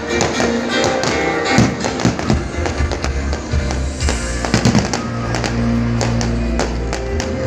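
Fireworks going off in a rapid series of sharp bangs over loud music, with the strongest bangs about one and a half, two and a bit, and four and a half seconds in.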